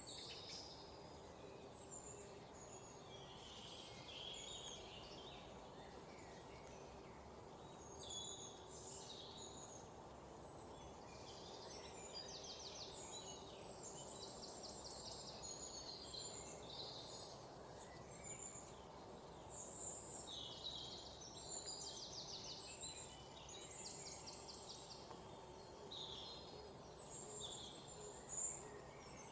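Several songbirds chirping, with short overlapping calls and a few rapid trills throughout, over a faint steady background noise.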